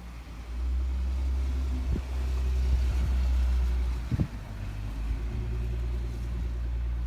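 Low, steady rumble that gets louder about half a second in, with a short knock about four seconds in.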